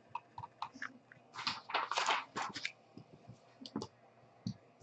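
Trading cards and their packaging being handled, a run of small clicks and short rustles that is loudest about two seconds in.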